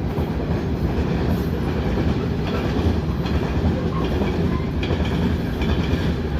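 Heavily loaded potash freight cars rolling past in a steady low rumble, the wheels clicking over rail joints now and then.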